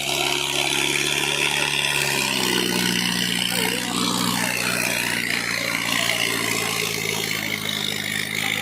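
Tractor engine running steadily; its note changes about two seconds in, then holds.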